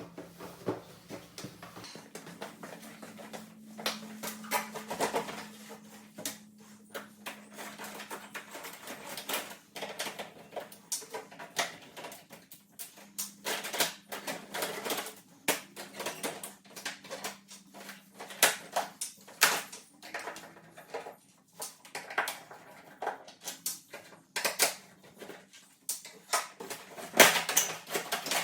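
Irregular clicks, knocks and light clatter of hands working on hard plastic and equipment while setting up to clean a split-system air conditioner, taking its covers off, over a faint steady hum. The knocks come thickest and loudest near the end.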